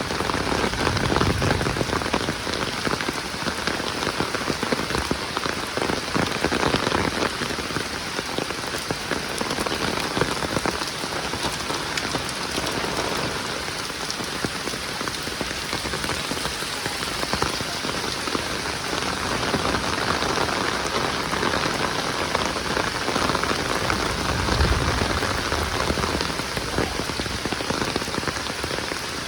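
Heavy rain falling steadily, a dense hiss of drops hitting the ground and roofs, with a brief low rumble about a second in and again near the end.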